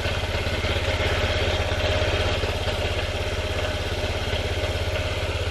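Honda Ruckus 50cc scooter's newly fitted engine idling steadily on its first run, with a fast, even beat.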